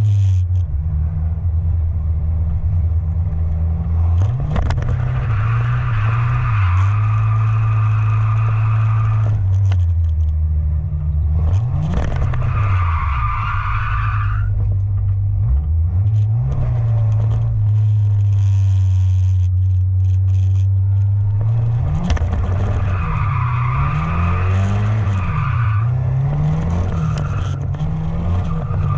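Truck engine revving, its pitch rising and falling, with the tyres squealing in several long stretches as it drifts.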